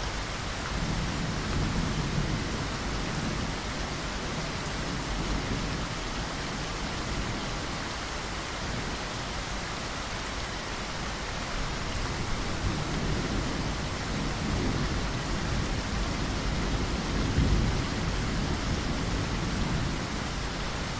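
Steady rain, with low rolls of thunder swelling under it a few times, the strongest about three-quarters of the way through.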